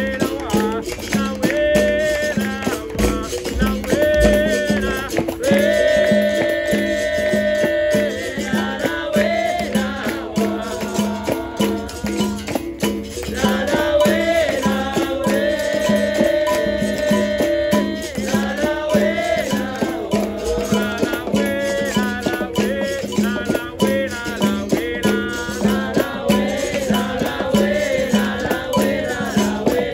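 Live capoeira roda music: voices singing over a steady, repeating percussion rhythm with the rattle of shakers, with long held sung notes in places.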